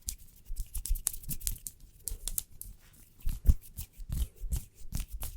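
Fingernails tapping and hands rubbing together for ASMR: a fast, irregular run of crisp clicks and dry rustles, with a louder knock about three and a half seconds in.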